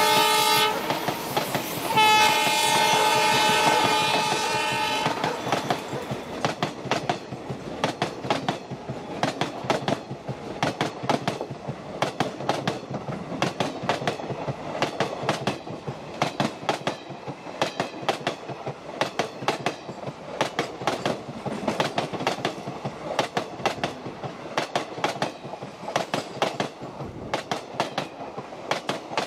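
Train horn blowing, breaking off briefly and sounding again for about three seconds. It gives way to the steady clickety-clack of passenger coach wheels running over the rail joints as the train rolls past, fading a little toward the end.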